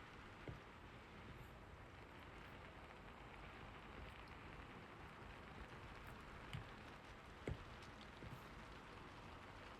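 Steady, faint rain hiss, with a few short sharp taps, the loudest about three-quarters of the way through.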